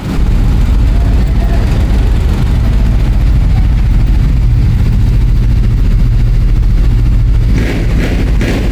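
Motorcycle engine running steadily, with a few short sharper bursts near the end.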